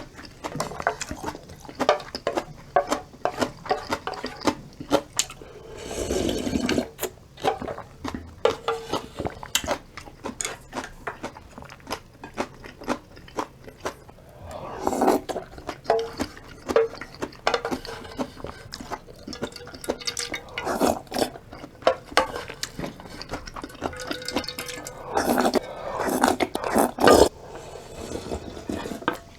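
Close-miked eating of ramen broth and noodles: wet slurps, chewing and many short sharp clicks, with longer slurping rushes about 6 s, 15 s and 25 s in.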